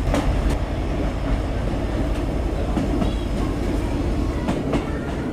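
Rumble of a passenger train running along the track, heard from inside the carriage, with a steady low drone and faint clicks from the wheels and rails.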